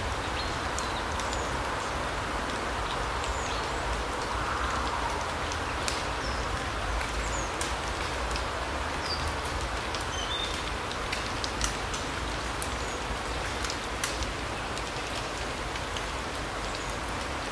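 Alpine forest ambience: a steady even hiss with scattered short, high bird chirps and sharp ticks dotted through it.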